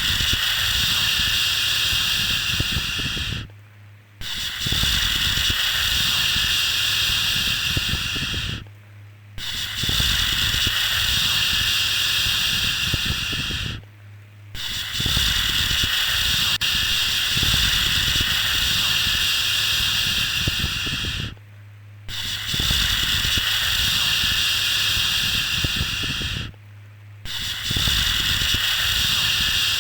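A long drawn-out "shhh" shushing sound, repeated over and over. Each shush lasts about five seconds, with a short break of about half a second between them.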